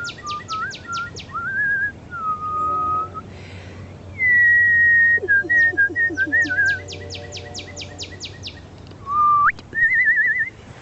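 A person whistling bird-call imitations: long steady notes, short upward slides and a warbling trill near the end. A bird answers twice, at the start and about six seconds in, with a rapid series of sharp notes at about five a second.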